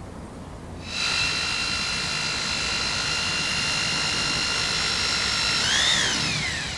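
Electric drill running steadily with a high whine, drilling fixing holes to secure the garage door opener's drive unit to the ceiling. Near the end the pitch rises briefly, then falls away as the drill winds down.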